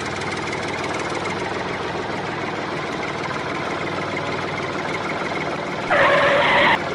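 An engine running steadily with a rough, even sound, as of a tractor. Near the end a louder hiss joins it for under a second.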